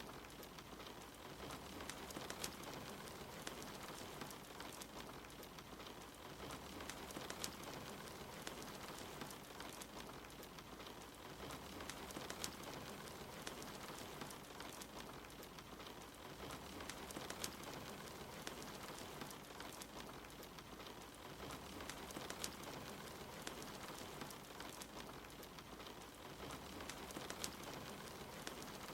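Steady rain pattering, mixed with a crackling fire giving frequent small sharp pops.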